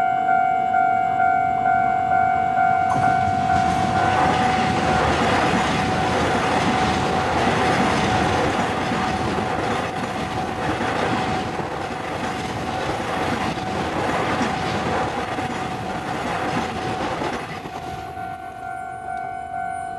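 A level-crossing warning bell rings about twice a second. About three seconds in, a Taiwan Railways EMU3000 electric multiple unit passes for about fourteen seconds, its wheels rumbling and clacking over the rails and covering the bell. Near the end, after the train has gone, the bell is heard again.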